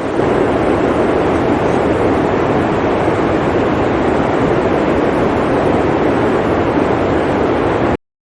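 Steady blizzard wind blowing as an even rush of noise, cutting off suddenly near the end.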